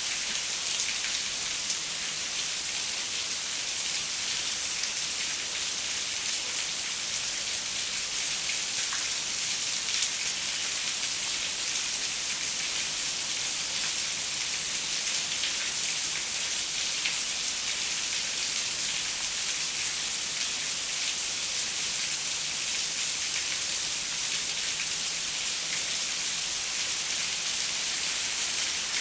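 Steady rain on a window: a dense, even hiss of falling water with many small drop ticks, unchanging throughout.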